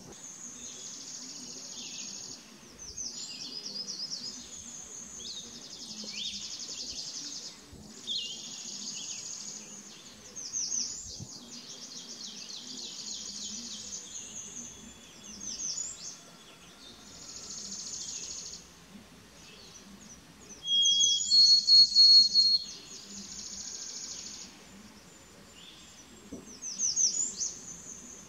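Birdsong: high trilled and buzzy phrases follow one another almost without pause, with a louder clear whistled phrase about two-thirds of the way through.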